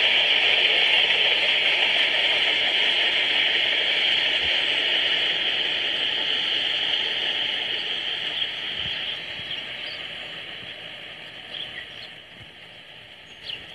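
Rolling noise of a freight train that has just passed, a steady rushing from its wheels on the rails that dies away gradually over about twelve seconds as the train moves off.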